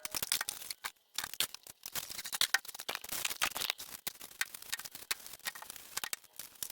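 Packaging being torn open and handled while new tools are unboxed: a quick, busy run of crackling, rustling and clicking.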